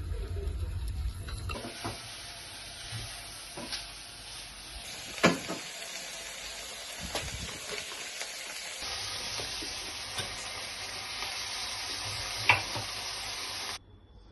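Food sizzling as it fries in a pan, with a few sharp clicks of a utensil against the pan. The sizzle stops abruptly near the end.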